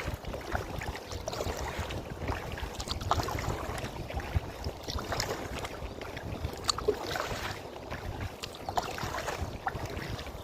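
Sounds from a kayak on the water: small irregular knocks and clicks against the hull over a low rumble of wind on the microphone.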